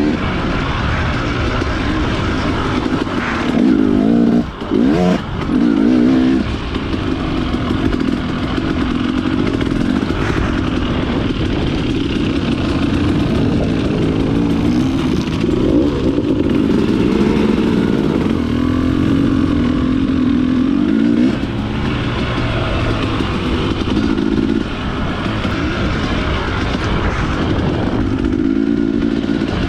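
Dirt bike engine running under way, its pitch rising and falling as the throttle is worked. It briefly drops off and picks up twice about five seconds in.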